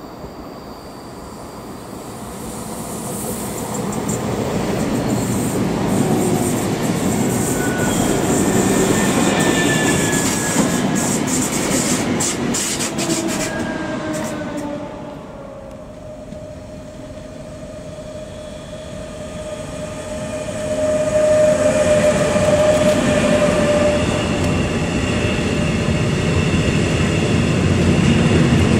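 A red electric multiple-unit passenger train runs into the platform, its noise building over the first few seconds, with falling wheel-squeal tones as it slows. After a dip, a container freight train rolls past, its wagons rumbling and clattering, getting louder about two-thirds of the way in.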